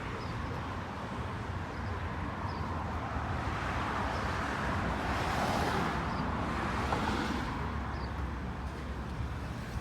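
Street traffic: a steady low rumble with a vehicle passing by, swelling up and fading away about five to seven seconds in.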